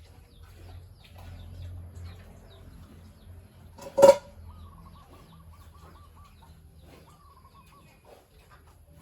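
Farmyard animal calls: one short, loud cry about four seconds in, then a warbling bird call, repeated more briefly a little later, over small scattered chirps.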